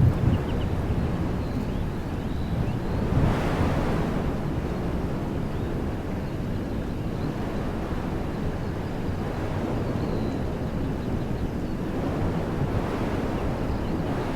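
Wind blowing through woodland trees: a steady rushing that swells in gusts about three seconds in and again near the end, with wind buffeting the microphone. Faint short bird chirps come through now and then.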